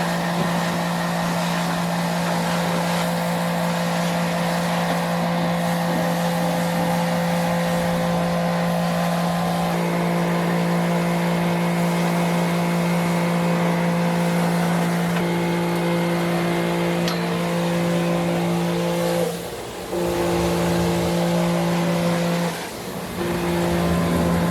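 Diesel engine of a compact construction machine running at a steady high speed, an even droning hum that drops out briefly twice near the end.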